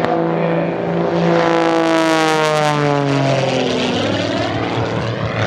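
Pitts aerobatic biplane's piston engine and propeller making a close fly-past. The engine tone swells to its loudest about two seconds in, then falls in pitch as the plane passes and moves away.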